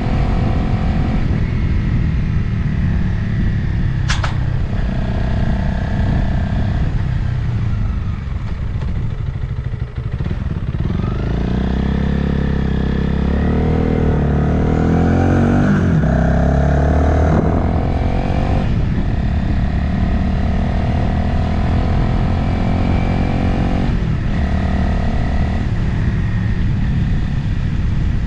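Motorcycle engine running on the move, with wind rushing over the microphone. About halfway through, the engine note comes forward, clearly pitched, rising and falling for several seconds before settling back into the steady riding drone. A single sharp click sounds about four seconds in.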